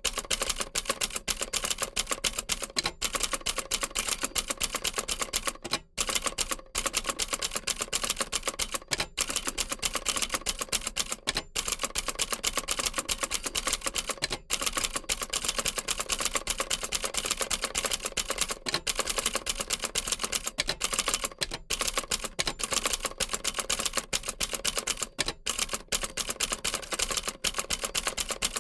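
Old manual typewriter typed on continuously: rapid clacking keystrokes of the typebars, broken by a few brief pauses.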